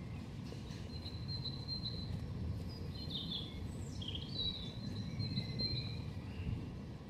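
Songbird singing a run of high chirps and trills over a steady low rumble of outdoor background noise.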